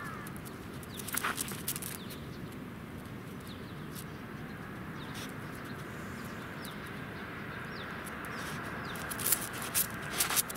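Birds calling with short chirps over a steady background chorus, with a few loud sharp clicks or rustles about a second in and again near the end.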